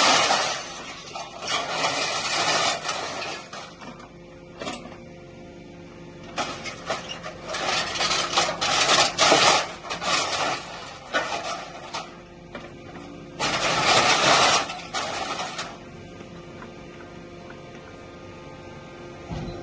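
Aluminium extrusion scrap clattering and crunching inside an automatic hydraulic metal baler, in several loud irregular bursts, over a steady hum from the baler's hydraulic power unit.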